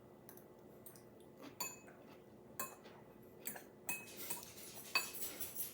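Cutlery clinking against dishes several times while eating: short, scattered clinks, some with a brief ring.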